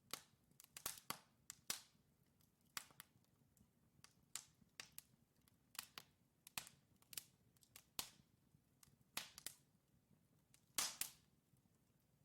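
Wood fire in a fireplace crackling: irregular sharp pops and snaps from the burning logs, one to three a second, the loudest about eleven seconds in.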